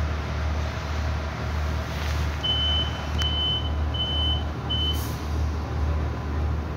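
Irish Rail 29000 class diesel railcar idling at a station with a steady low hum, and four short high beeps of one pitch about two and a half seconds in: the warning that the doors are about to close. A brief hiss follows near the end of the beeps.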